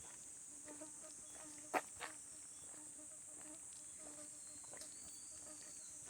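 Summer night chorus of rice-field insects and frogs: a steady high-pitched hum of crickets and other insects over low, pulsing frog calls. Two sharp clicks a quarter second apart, about two seconds in, are the loudest sounds.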